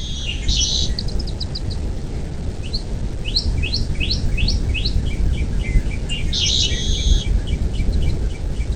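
A bird calling in a series of quick, high chirps and piping notes, with two dense chattering bursts about six seconds apart. A steady low rumble of wind noise runs underneath.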